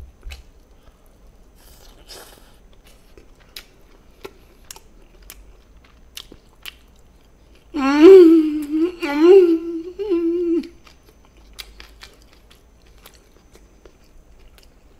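Close-miked chewing of chicken in gochujang sauce, with small wet mouth clicks and smacks. About eight seconds in, a loud closed-mouth "mmm" of enjoyment, wavering in pitch, swells three times over about three seconds.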